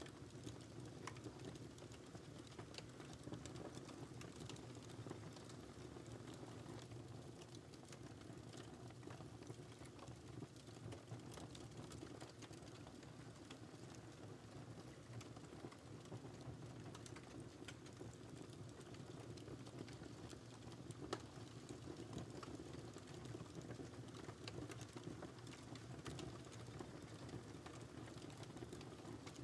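Wood fire crackling faintly: many small, irregular pops and snaps over a steady low rumble.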